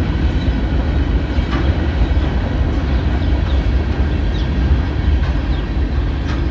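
Freight train cars rolling past in a steady low rumble, with occasional clicks of wheels over the rail joints and a few faint, short, high wheel squeals.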